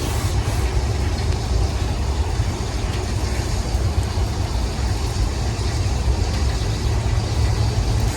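Wind buffeting the microphone: a loud, steady, fluttering rumble with an even hiss over it, from gusty wind of about 15 to 16 mph.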